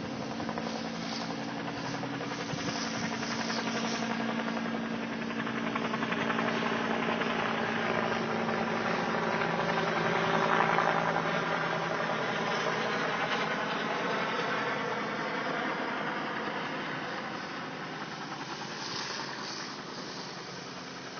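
An engine running steadily under a broad rushing noise that swells to its loudest about halfway through and then fades.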